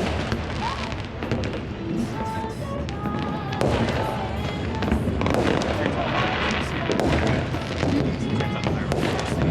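Big New Year's fireworks display: many bangs and crackles overlapping without a break, mixed with music and crowd voices.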